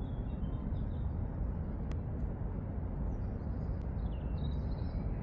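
Steady low outdoor rumble, like wind buffeting the microphone or distant traffic, with two faint clicks and faint bird chirps near the end.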